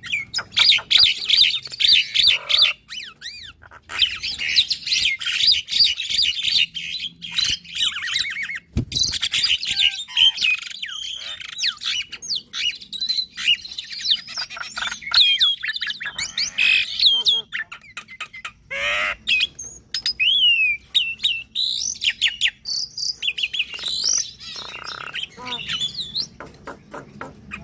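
Javan myna and black-winged myna singing together: a continuous, varied stream of whistles, chatter and quick trills, many notes gliding up or down, with a single sharp knock about nine seconds in.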